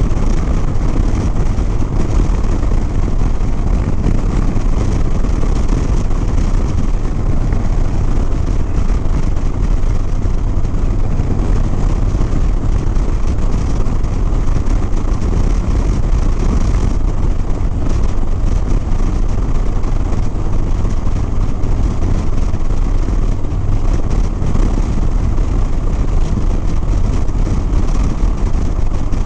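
Harley-Davidson Sport Glide's V-twin engine running steadily at road speed, with wind rushing over the microphone as the motorcycle rides along.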